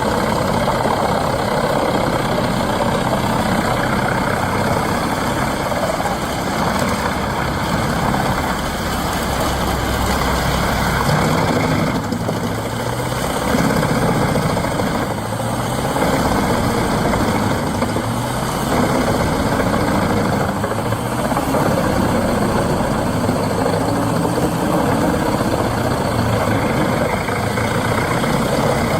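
Heavy forestry machinery running: a large engine with continuous mechanical noise, its pitch shifting a little up and down.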